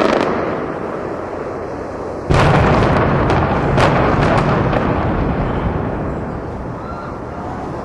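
Demolition explosive charges going off: a sudden blast about two seconds in and a quick run of sharp cracks, followed by a long low rumble that slowly fades, typical of a building coming down in an implosion.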